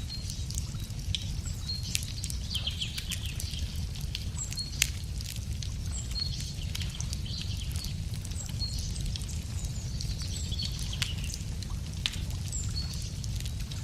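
Wood fire crackling with irregular sharp pops over a steady low rumble. Small birds chirp and trill repeatedly in the background.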